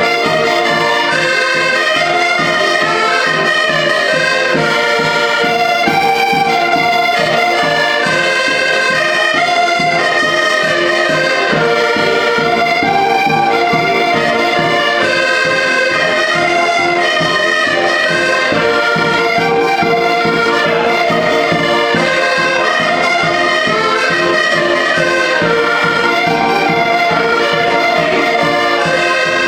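A live band playing a lively traditional tune: a melody over a steady, even beat, without a break.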